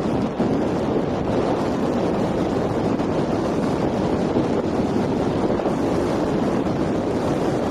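Strong wind buffeting the microphone aboard a sailboat sailing close-hauled, with water rushing along the hull; a steady, loud rushing noise.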